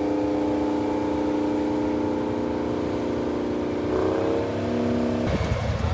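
Large diesel tractor engine pulling a plow under load, a steady pitched drone. About four seconds in its pitch shifts, and just after five seconds it gives way abruptly to a deeper, rougher rumble.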